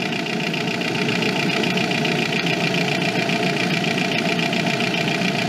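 A Skoda's engine idling steadily under the open bonnet.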